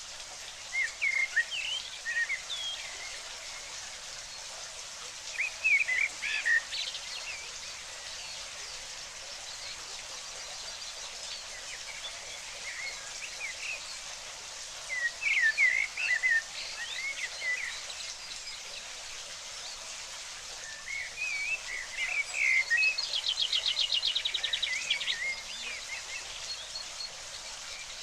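A songbird sings in four short bursts of quick chirps and warbles, the last ending in a fast trill near the end, over a steady hiss of running water.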